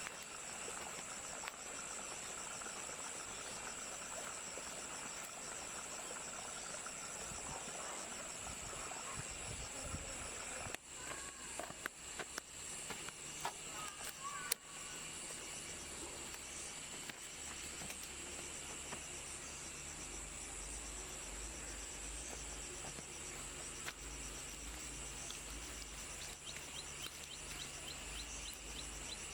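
Insects chirping steadily in a high, pulsing chorus. A few sharp knocks and clicks come about halfway through.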